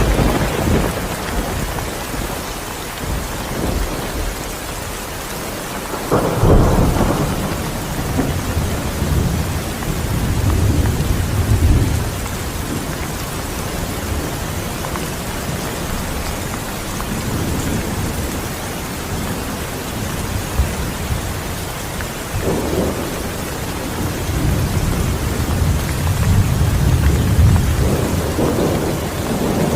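Steady rain with thunder rumbling repeatedly, several deep rolls rising and fading, the strongest beginning about six seconds in and another building near the end.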